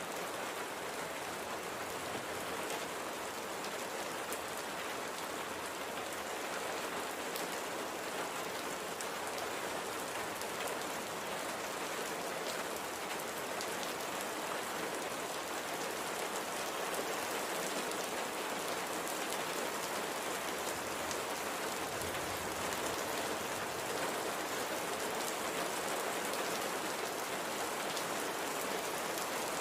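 Light, gentle rain falling steadily, a constant hiss of raindrops with fine scattered pattering.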